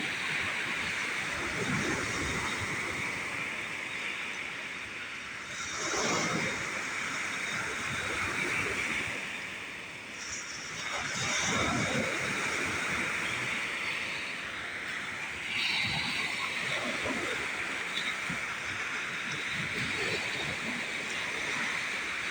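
Lake Superior storm waves breaking on the shore, really loud, over a steady rush of wind and surf. A big wave crashes in about every five seconds.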